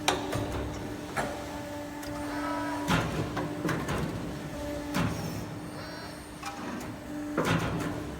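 Tube bending machine at work: a steady motor hum that stops and restarts, with a sharp knock every couple of seconds, about four in all, and a thin whine between some of them.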